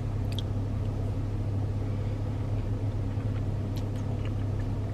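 Steady low hum of a parked car's engine idling, heard from inside the cabin. A couple of faint small clicks come about half a second in and again near the end.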